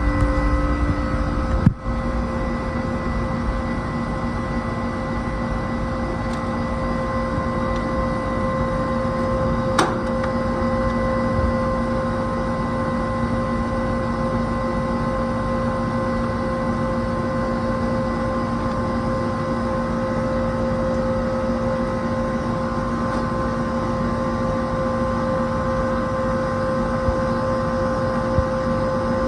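Air conditioner condensing unit running steadily, its compressor started through a newly fitted hard start kit: a constant machine hum with several held tones, the sign of the unit running properly.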